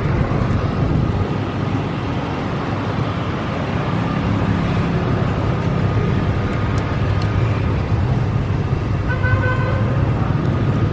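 Steady street traffic, with vehicle engines running as a continuous low hum, and a short pitched tone near the end.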